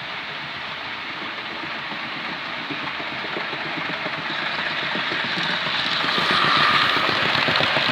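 Model locomotive running along the layout's track, its wheels and motor making a steady rattling whir that grows steadily louder as it comes nearer, loudest a little before the end.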